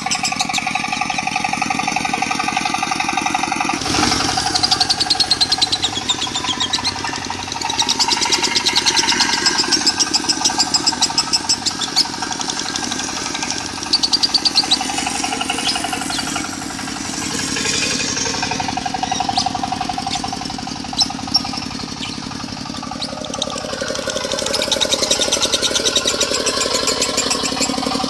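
A diesel engine idling with a fast, even pulse, mixed with lovebirds' rapid, high trilling song in sweeping runs that come and go.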